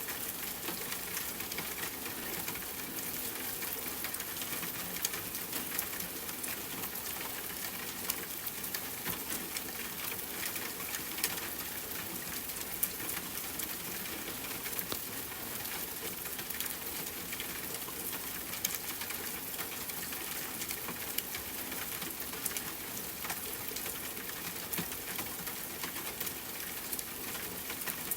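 Steady rainfall mixed with a crackling wood fire, with frequent small sharp crackles and pops over an even hiss.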